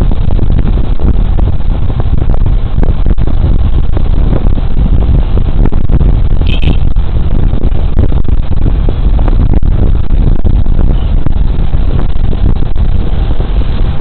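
Loud wind rush and road noise on a body camera's microphone while riding a Suzuki Burgman Street 125 scooter at speed. A short high beep sounds about six and a half seconds in.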